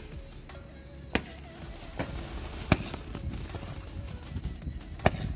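Low-noise multi-shot skyshot firework box (Florals 100 'No Sound') firing its shells: a sharp pop every second or two over a steady crackling fizz, the launches softer than the usual loud bangs of a skyshot.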